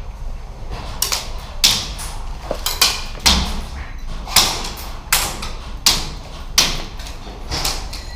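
Footsteps at a steady walking pace, about nine short crunching steps on rough ground.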